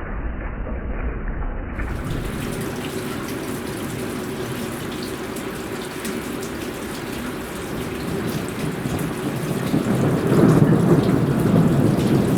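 Heavy thunderstorm downpour: a steady rush of rain, with a low rumble of thunder building over the last couple of seconds.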